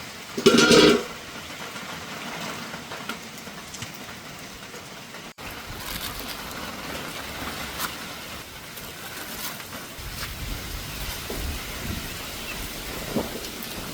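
Steady rain hiss mixed with street traffic, a vehicle rumbling past later on. About half a second in there is a brief, loud pitched sound.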